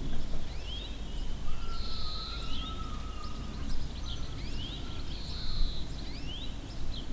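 Birds calling: scattered short rising and falling chirps and a couple of longer held whistles, over a steady background hiss.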